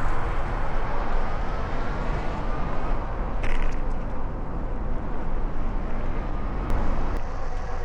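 Steady rumble and hiss of riding a Philodo Falcon e-bike along a city street, with wind on the microphone and traffic around. A brief hiss comes about three and a half seconds in.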